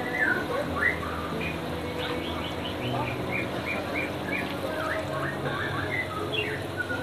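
Small birds chirping, many short quick calls, some in runs of about three a second, over a steady low hum.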